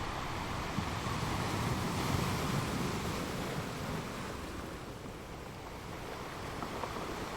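Ocean surf: waves breaking and washing in, in a steady rush that swells about two seconds in and ebbs a few seconds later.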